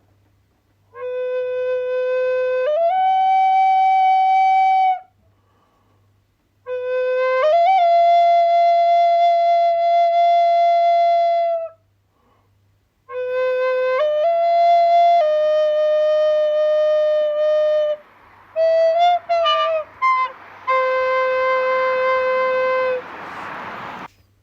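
A solo wind instrument playing three long held notes, each opening low and leaping up partway through, separated by short pauses. Then come a few short notes and a final held note that gives way to breathy, rushing noise near the end.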